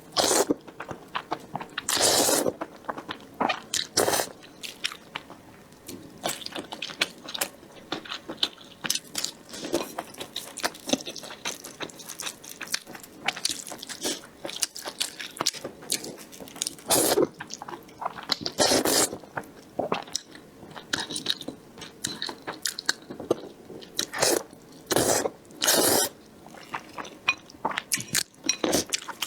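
Close-miked eating: irregular slurping and chewing of noodles, with sharp wet smacks and crunches scattered throughout.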